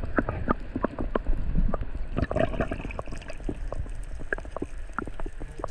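Water sloshing and gurgling around a camera held just under the sea surface, with many irregular sharp clicks and knocks.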